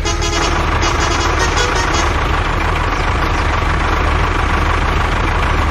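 Heavy truck engine running steadily, with a horn sounding twice in the first two seconds.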